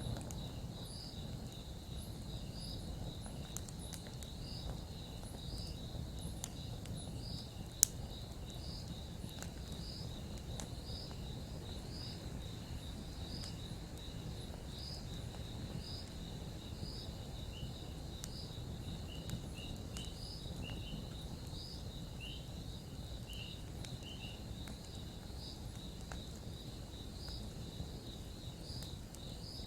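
Campfire crackling with scattered small pops and one sharp pop about eight seconds in, over a low steady rush. Behind it crickets chirp in a steady high trill, about one and a half chirps a second.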